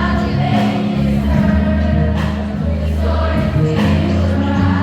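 Music with a choir singing over a strong, changing bass line.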